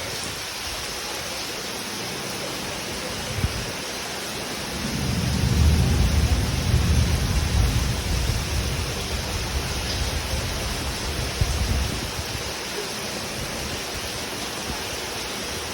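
Steady rain hiss, with a low roll of thunder that swells about five seconds in and rumbles on for about seven seconds before fading back under the rain.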